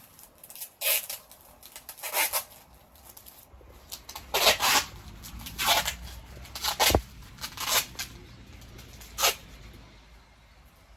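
A series of short, scratchy rustling noises, about eight of them spaced irregularly, with a faint low rumble coming in about a third of the way through.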